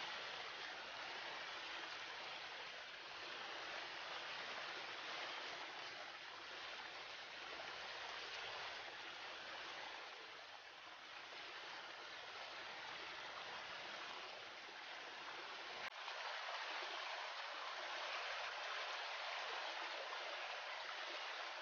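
Steady rushing of flowing river water. A single sharp click comes about three-quarters of the way through, after which the low part of the water noise drops away.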